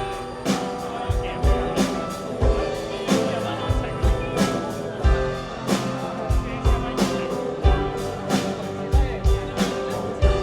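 A live rock band playing an instrumental passage: a drum kit keeps a steady kick-drum beat under sustained keyboard and guitar chords.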